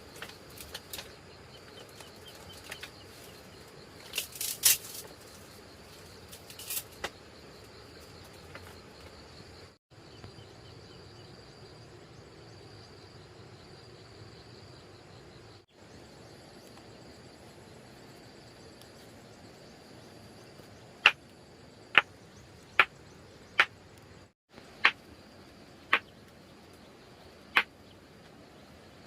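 Outdoor ambience with a steady high insect drone. A few sharp clicks come early on, and a run of eight sharp knocks, about one a second, comes in the last third.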